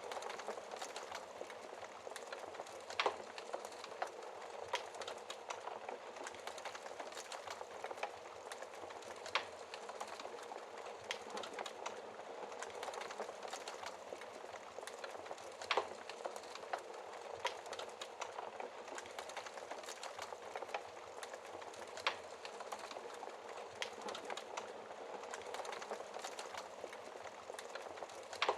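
Wood fire crackling: a steady hiss of flames with a constant scatter of small crackles, and a louder pop about every six seconds.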